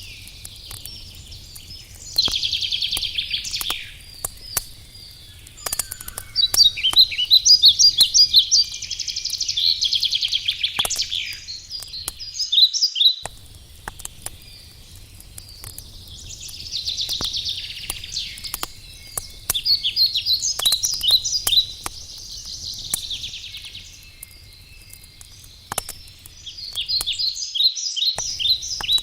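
Forest songbirds singing in repeated trilled phrases a few seconds long, one after another, over the scattered sharp crackles of a wood campfire.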